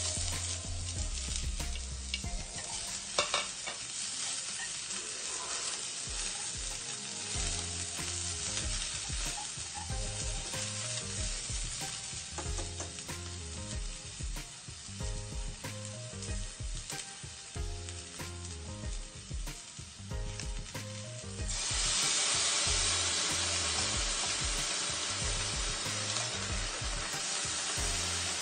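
Chopped ginger, garlic, bell pepper and tomato frying in hot oil in a stainless steel skillet, sizzling steadily while being stirred. About three-quarters of the way through the sizzle turns suddenly louder.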